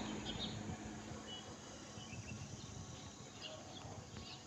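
Faint outdoor ambience with small bird chirps scattered throughout.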